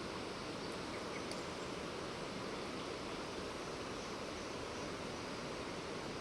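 Steady rain falling, an even hiss, with a couple of faint ticks about a second in.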